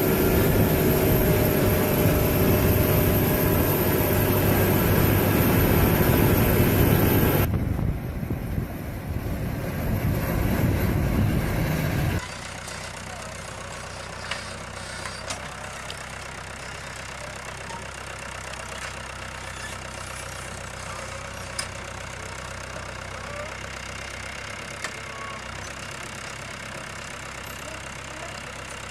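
Machine engines running: loud at first, the sound changing abruptly about seven and twelve seconds in, then a quieter steady hum with a few sharp clicks.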